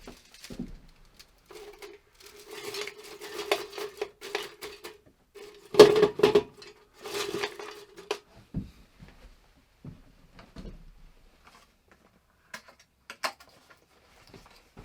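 Objects being handled and knocked together, like pots and dishes, with a steady scraping tone in broken stretches through the first half and the loudest clatter about six seconds in; then a few scattered small knocks.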